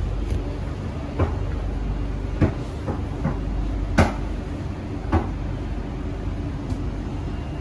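Steady low hum inside a stationary Kawasaki-CRRC Sifang C151C MRT car standing with its doors open, broken by six short sharp knocks about a second apart in the first five seconds.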